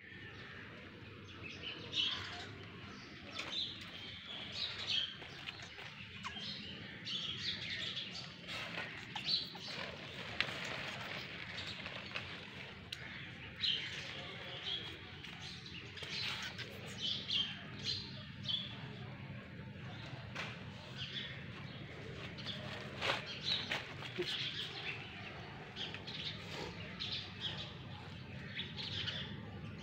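Small birds chirping, many short high calls one after another, over a steady low hum.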